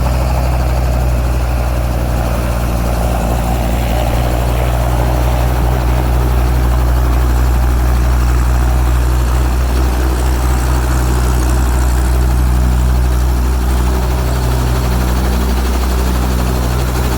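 Robinson R22 helicopter running: its four-cylinder piston engine and rotors make a steady, even drone that holds without a break.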